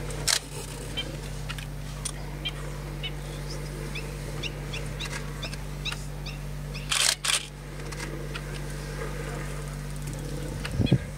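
Birds chirping in short, repeated calls over a steady low hum, with a brief loud burst of noise about seven seconds in.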